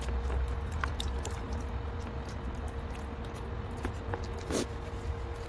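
Close-up chewing and sucking on spicy chicken feet, with many small wet clicks. A low rumble and a faint steady hum run underneath.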